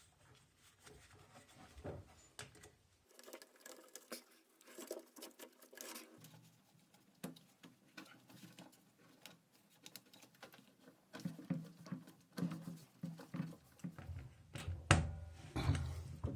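Hands fitting parts inside a top-loading washing machine: scattered small clicks, taps and rustling of plastic and metal pieces, with a sharper click near the end.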